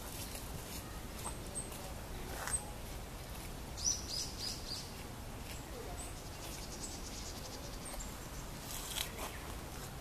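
Wild songbirds calling in woodland: thin high chirps scattered through, and a quick run of about four falling notes around four seconds in.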